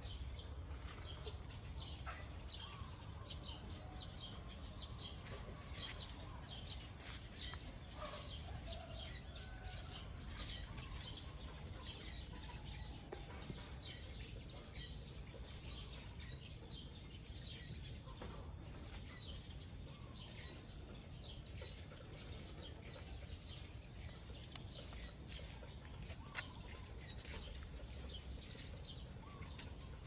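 Small birds chirping and calling repeatedly, short high notes scattered throughout with a few sliding calls, over a steady low background hum.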